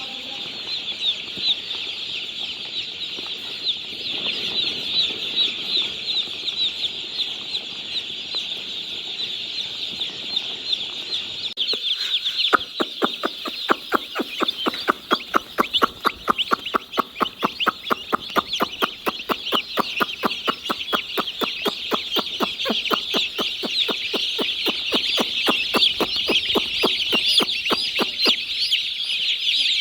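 A large flock of chickens in a poultry house, many birds cheeping and clucking at once in a steady, dense chorus. About twelve seconds in, a fast, even pulsing or clicking at about five beats a second joins it and runs until near the end.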